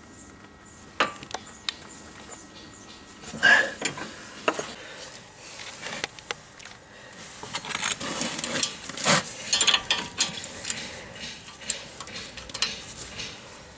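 Metal hand tools and parts clinking and clicking during work on a car's front suspension: scattered sharp knocks and clinks, the loudest a short ringing clink about three and a half seconds in.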